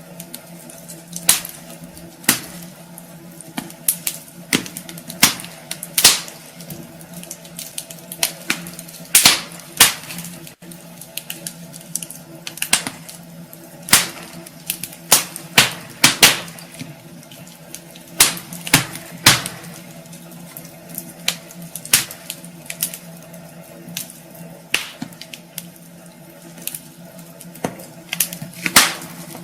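Wood fire in a fireplace crackling, with irregular sharp pops and snaps of varying loudness, over a steady low hum.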